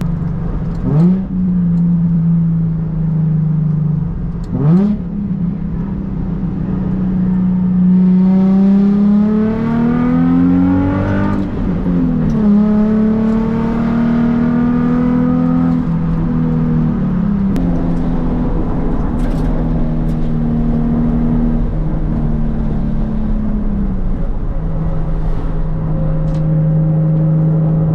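Nissan 350Z's V6 running through an ISR Performance exhaust while driving. Two quick revs come near the start, then the engine climbs in pitch under acceleration, drops at a gear change about twelve seconds in, and settles into a steady cruise.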